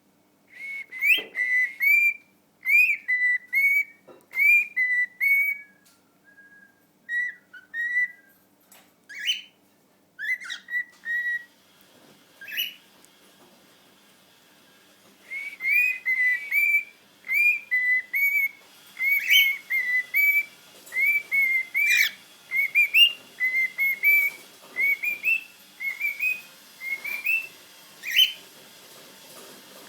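Male cockatiel's courtship song: strings of short, quick whistled notes with upward flicks, in two long phrases with a pause of a few seconds between them.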